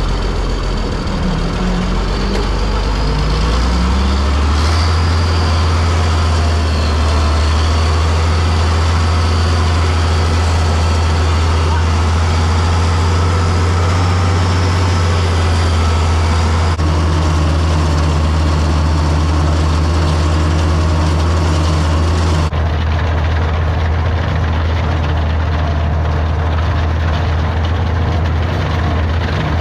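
Farm tractor engine running, its pitch rising as the revs come up a few seconds in, then holding a steady, loud, low drone as it pulls. The higher part of the sound drops away abruptly about two-thirds of the way through.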